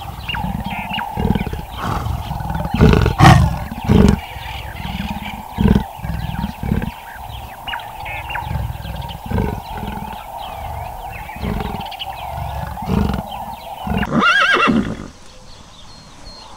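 Animal calls: a series of low pulses about once a second over a steady mid-pitched hum, then, about fourteen seconds in, a short call that bends up and down in pitch.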